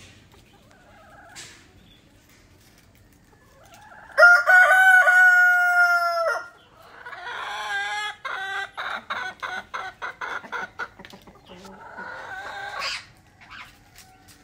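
A rooster crows once, one loud call of about two seconds on a steady pitch, followed by a rapid run of clucking, about three clucks a second for roughly five seconds.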